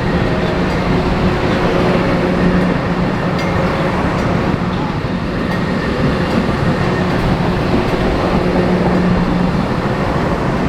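A train running past on the tracks: a loud, steady rumble of wheels on rail, with a low hum that swells in and fades twice.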